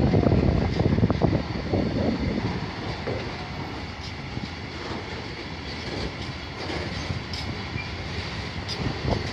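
Freight train of covered wagons running past on the track: a steady rumble of wheels on rail with clattering over the joints, heaviest in the first two seconds.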